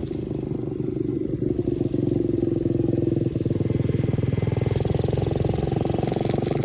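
125cc dirt bike engine running at speed, with a steady pitch and brief dips in throttle about two and three and a half seconds in.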